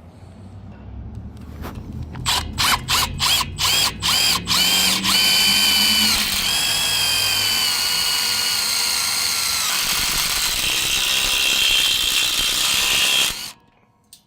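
Power drill run in about eight quick trigger pulses, each a short rising whine, then held at speed for about eight seconds before it stops suddenly.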